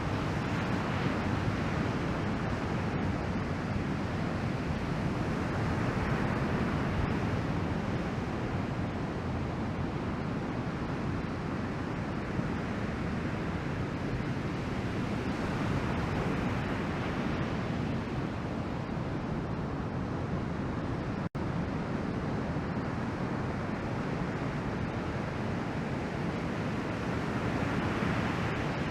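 Ocean surf from a typhoon swell, breaking and washing in a steady rush, with wind buffeting the microphone. The sound cuts out for an instant about two-thirds of the way through.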